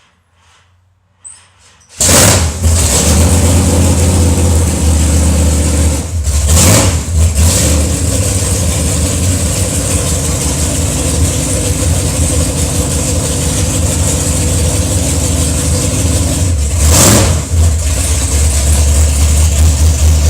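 A car engine starting about two seconds in, then running loudly with a deep, steady rumble. The throttle is blipped twice, once a few seconds later and once near the end.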